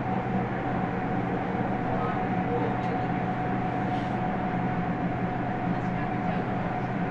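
Meitetsu 100 series electric train standing at a subway platform, its onboard equipment giving a steady hum with a steady high whine over the noise of the underground station.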